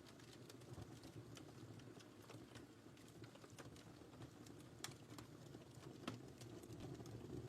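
Fire burning quietly in a fireplace: a faint, steady low rumble of flames with scattered sharp crackles and pops, two of them a little louder, near the middle and about six seconds in.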